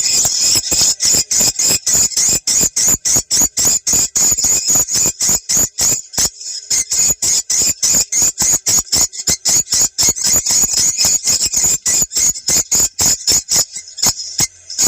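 Swiftlet lure call played back for checking a site: a fast, unbroken run of high, buzzy chirps, several a second, with a short pause about six seconds in and another near the end.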